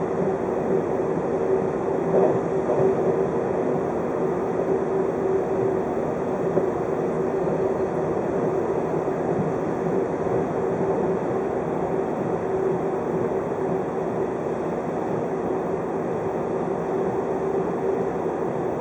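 583 series electric multiple unit running along the line, heard from inside a passenger car: a steady rumble of wheels on rail with a constant hum.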